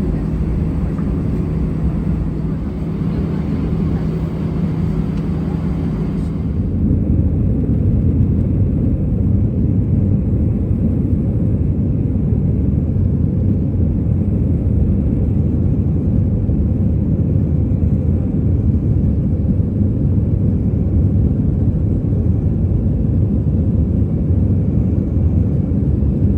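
Steady low rumble of a moving vehicle, with a steady hum over it for the first six seconds; then it changes suddenly to a heavier, duller rumble.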